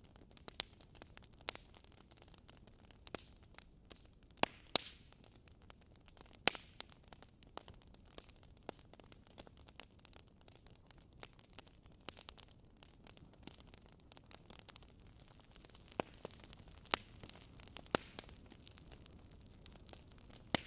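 Wood fire crackling in a fireplace: irregular sharp pops and snaps over a soft low hiss, with a handful of louder pops scattered through.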